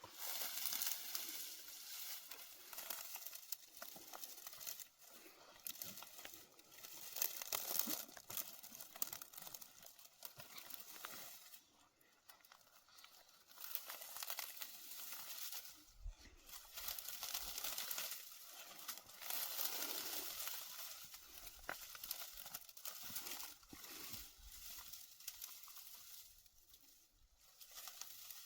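Dry material rustling and crinkling as it is handled, full of small crackles, in irregular spells with short pauses.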